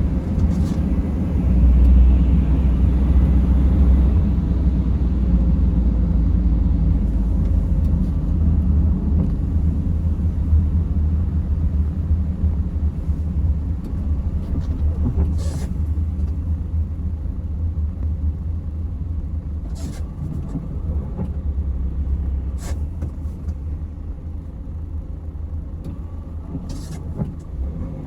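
Mercedes Sprinter van driving, heard from inside the cabin: a steady low rumble of engine and road noise that eases slightly after the first few seconds. A few brief sharp sounds break through, spaced several seconds apart.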